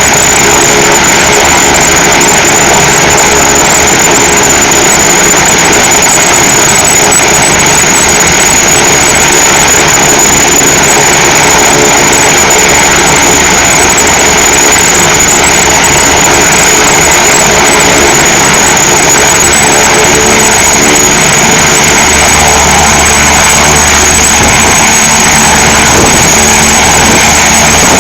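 Helicopter's turbine engine and rotor running loud and steady at close range, with a little more low rumble from about three quarters of the way in.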